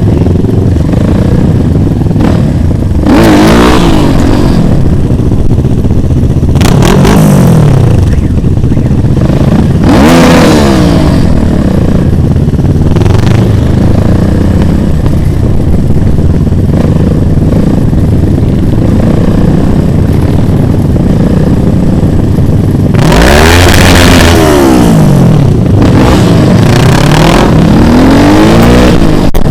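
Motorcycle engines running loudly. The sound swells and fades several times as bikes go by one after another, with a steadier stretch in the middle.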